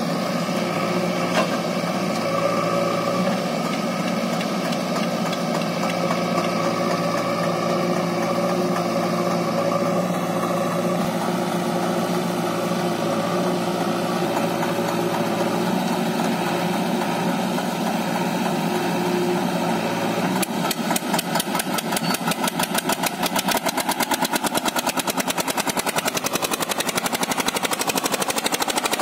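Eicher 242 tractor's diesel engine running steadily under the load of a fully loaded trolley. About two-thirds of the way through, the sound changes to a rapid, even pulsing.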